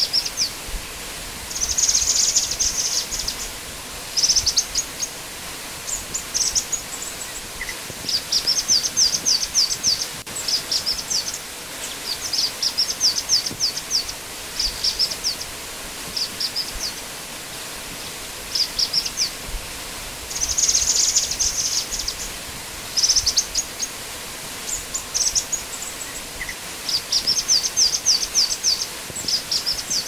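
Black-winged flycatcher-shrike (Jingjing Batu) song: short, high-pitched phrases of rapid chattering notes, each lasting about a second, repeated a dozen or more times with brief pauses between. Under it runs a steady background noise.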